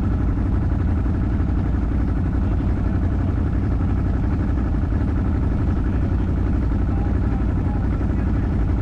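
Off-road four-wheel-drive vehicle's engine running steadily at an even pace, with a fast low pulsing and no revving.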